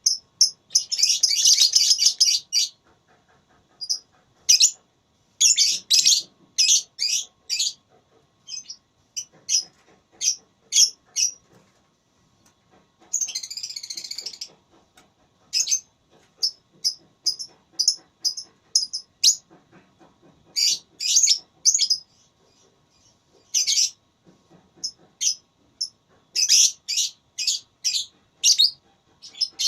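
Lovebirds calling: short, high-pitched chirps in quick series throughout, with two longer rasping bursts of about a second and a half, one about a second in and one near the middle.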